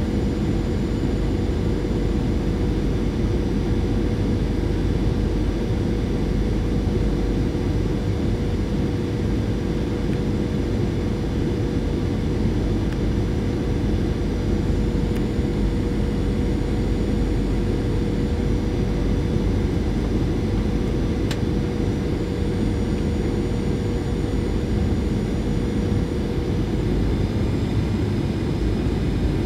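Steady cabin noise inside a Boeing 737-800 in flight: a low rush of air over the fuselage and the drone of its CFM56 engines, with a steady hum that fades out near the end.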